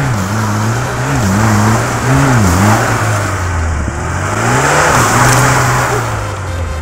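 Lada Niva's four-cylinder engine revving up and down repeatedly while its front wheel spins in mud and snow, stuck in a ditch. Under the engine there is a rushing hiss from the spinning tyre throwing up mud, with a longer rise and fall of the revs in the second half.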